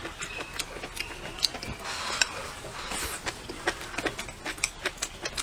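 Eating sounds of a mouthful of stir-fried cured pork and rice being chewed: a run of small wet clicks and smacks, two or three a second.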